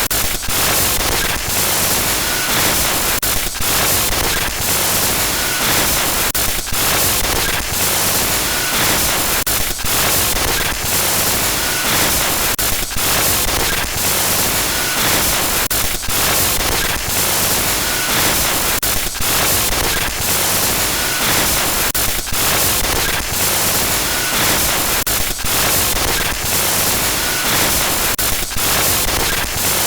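Glitch-noise horror sound effect: loud, continuous static hiss, broken by irregular crackles and brief dropouts, with a faint short high blip about every three seconds.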